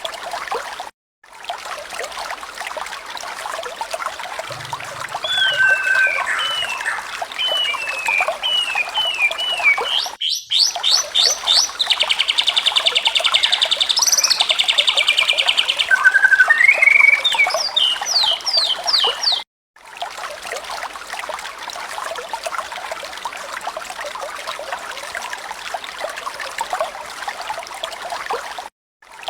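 Bird calls over a steady trickle of running water, spliced together in segments that cut off abruptly several times. Through the middle come short falling chirps, then a run of quick rising whistles and a buzzy rattle.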